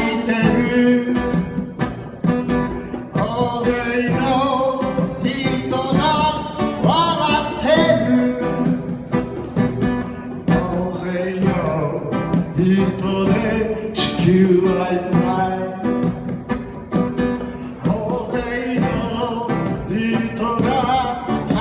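Live music: a plucked acoustic guitar with a singing voice.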